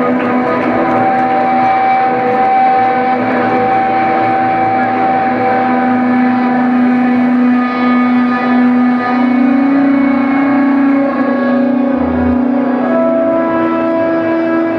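Live band music: long held notes over a steady drone, the pitch shifting every few seconds.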